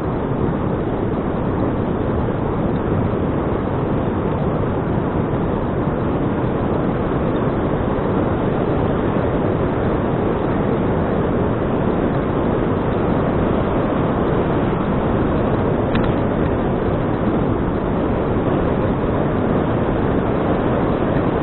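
Steady rushing wind noise on an action camera's microphone while riding a bicycle, mixed with the rumble of the tyres on the road, with no letup.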